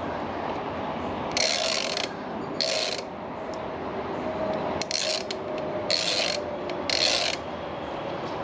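Hand ratchet with a 10mm socket clicking in five short runs as it is swung back and forth to back out a bolt on a Briggs & Stratton engine.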